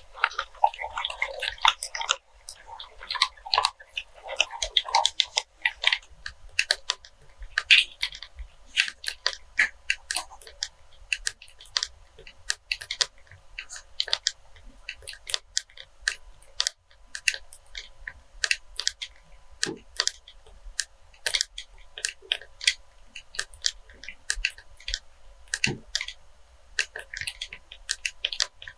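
Close-miked ASMR handling of a cleaning-wipes pack: crinkly rustling for the first several seconds, then a long run of quick, irregular taps and clicks.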